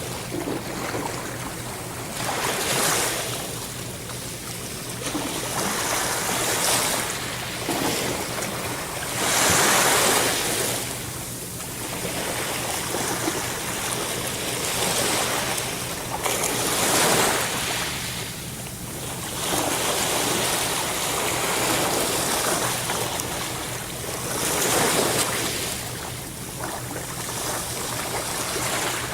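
Sea waves breaking and washing in, swelling and ebbing in slow surges every few seconds, the strongest near the middle.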